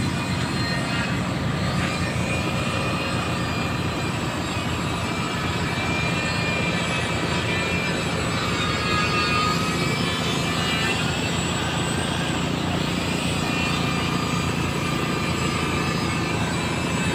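An engine running steadily at a constant speed, a continuous low hum with some wavering higher tones over it.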